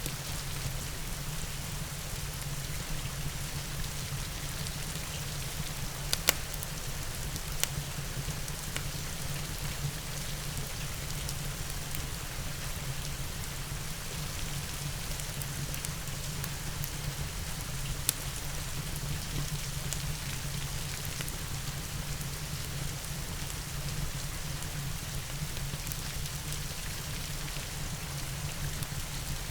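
Steady rain with a few sharp crackling pops from a wood fire, the loudest a little after six seconds in and again around eighteen seconds.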